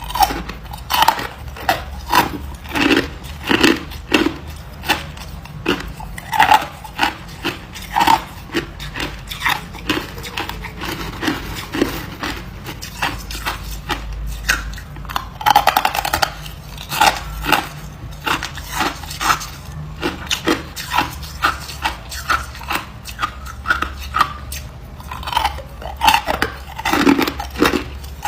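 A person biting and chewing hard ice: an irregular run of sharp crunches, often two or three a second, with longer grinding crunches about halfway through and again near the end.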